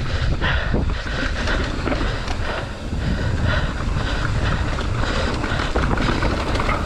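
Wind buffeting the microphone over the continuous clatter of a mountain bike riding fast over rough rock, with frequent small knocks from the tyres, chain and frame.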